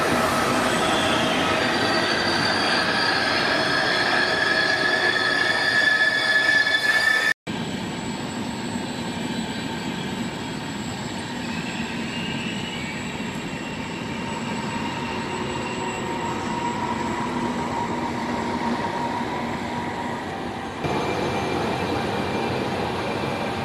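Electric passenger trains at stations: a steady rumble with several high whining tones that slide slowly upward for the first seven seconds. The sound cuts off abruptly once and changes suddenly again near the end, giving way to a quieter train rumble with fainter tones.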